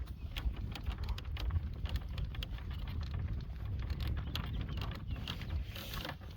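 A driving horse's hooves and the cart's wheels crunching and clattering over a dirt road at a walk, in a stream of irregular clicks, over a low wind rumble on the microphone. A short rush of noise comes near the end.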